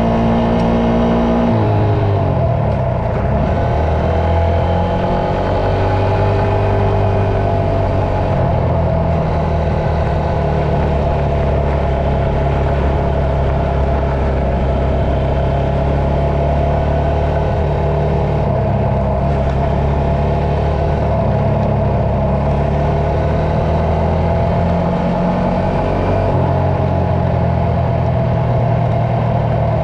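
Dirt bike engine running under way, its pitch rising and falling with the throttle and gear changes: a drop about two seconds in, then long steadier stretches.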